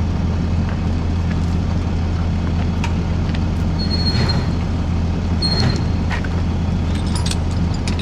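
Diesel engine of a tow truck running steadily at idle, with scattered clicks and knocks and two brief high squeaks.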